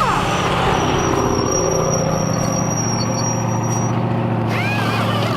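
Off-road race truck engine running steadily, with a thin high whine through the middle and a few short rising-and-falling squeaks near the end.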